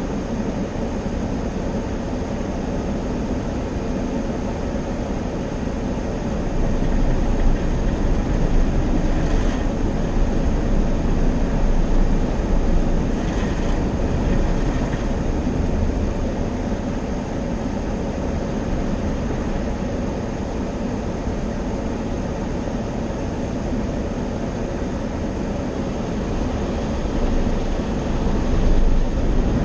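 Automatic car wash equipment working over a car: a steady rushing, rumbling noise that swells louder for several seconds in the middle and again near the end.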